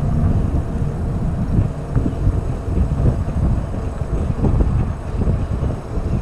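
Wind rumbling and buffeting on the microphone of a GoPro carried on a moving e-bike, a rough, uneven low rumble with riding noise underneath.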